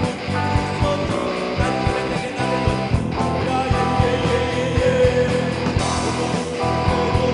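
Band music led by guitar over a steady, regular beat.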